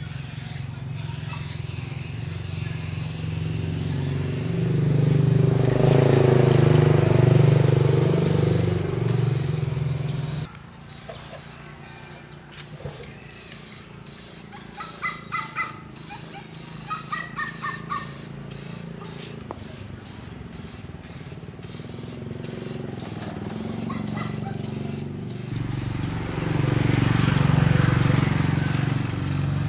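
Spray gun hissing in many quick on-off bursts as a machine is sprayed with paint, with a low machine hum that swells twice underneath.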